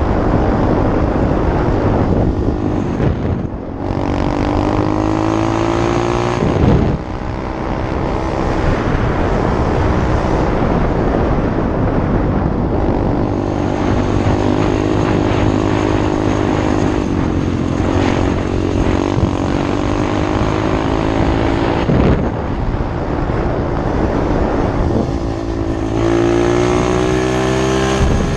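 SSR 125 pit bike's small single-cylinder four-stroke engine running hard while riding, its pitch climbing as it revs up and dropping back at short breaks, as when shifting up a gear, several times over.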